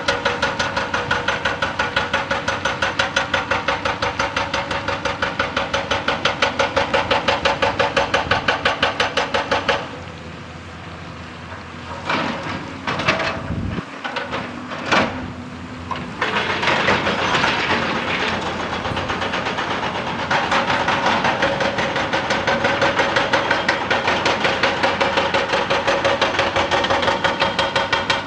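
Excavator-mounted hydraulic rock breaker hammering rock in a fast, even rhythm of blows. It stops about ten seconds in, with a few separate knocks in the lull, and starts hammering again about six seconds later.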